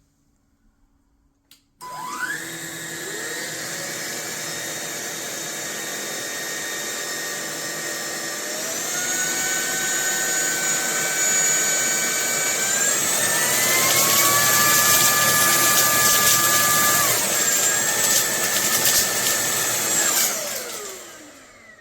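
Fieety cordless stick vacuum switched on after a click, its motor whining up to speed. The pitch steps up twice and drops back once, then the motor winds down as it is switched off near the end.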